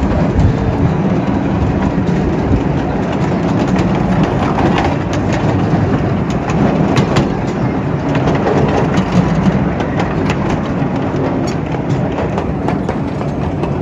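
A 12-inch gauge live steam railroad train running along the track: a steady running noise of the wheels on the rails, with scattered clicks and clacks.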